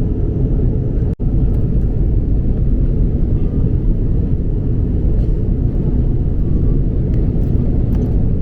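Steady low rumble of an Airbus A330-200 jet airliner, with a brief dropout about a second in.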